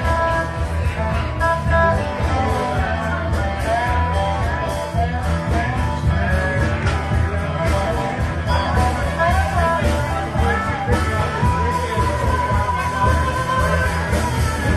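Live rock band playing, with a steady bass and drum groove under a melodic lead line.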